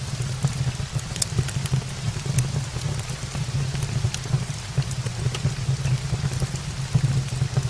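Steady rain, a constant low rumble under an even hiss, with many scattered sharp ticks and crackles throughout.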